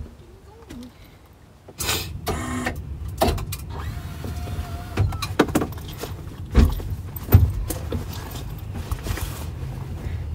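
Car engine starting about two seconds in with a short whine, then running with a steady low rumble heard from inside the cabin. Scattered thumps and rustles come from someone shifting in a seat.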